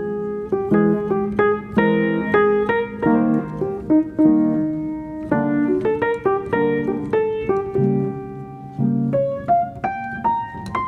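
Background piano music: a melody of struck notes over low chords, the line climbing in a run of single notes near the end.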